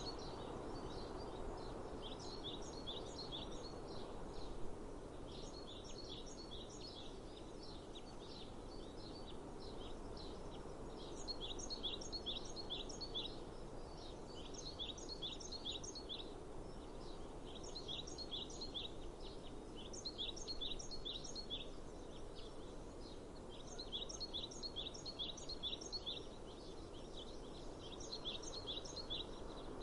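A songbird repeatedly singing short phrases of quick high chirps, a phrase every two to three seconds, over a steady low outdoor background noise.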